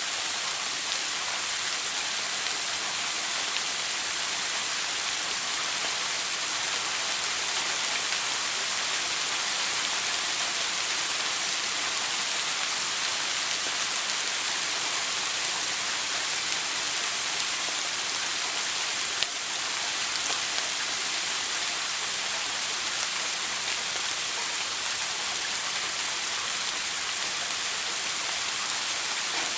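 Shower water running steadily, a continuous hiss of spray falling on a surface, with a single brief click about two-thirds of the way through.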